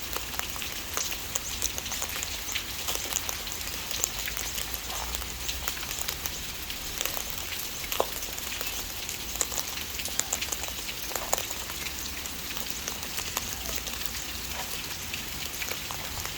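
Steady rain from a summer storm falling on a hard surface: an even hiss dotted with scattered sharper drop ticks.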